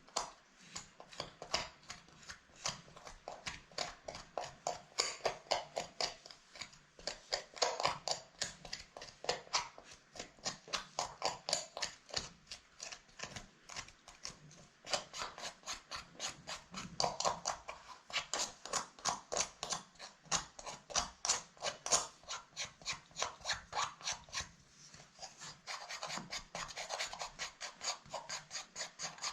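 A brush scrubbing a handbag with quick, rhythmic rasping strokes, about three to four a second, easing off briefly a couple of times.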